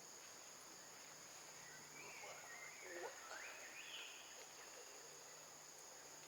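Faint steady high-pitched insect drone, with a few faint calls sliding up and down in pitch about two to four seconds in.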